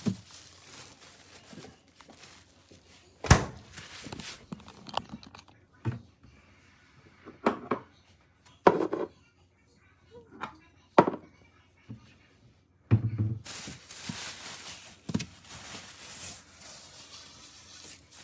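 Irregular knocks and thumps, about half a dozen spread apart, with stretches of rustling near the start and in the last few seconds.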